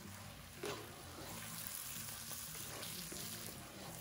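Whole chicken, onions and spices sizzling in oil in a pot as they brown, stirred and turned with a wooden spoon. One brief louder knock a little under a second in.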